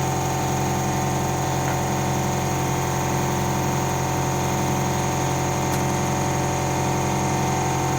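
Steady mechanical hum of a motor running continuously, with several constant tones and no change in pitch or level.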